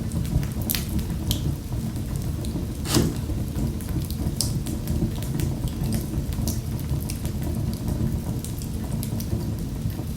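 Fireplace fire crackling: many small sharp pops and snaps over a steady low rumble, with one louder pop about three seconds in.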